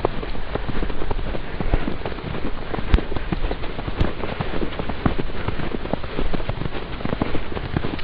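Footsteps crunching through deep snow, a dense irregular crackle, with a low rumble of wind on the microphone.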